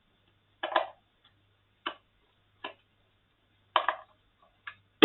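Irregular clicks and light knocks of a handheld sound level meter's plastic casing and small tools being handled during disassembly, about six in a few seconds with the sharpest at the end. A faint low hum runs underneath.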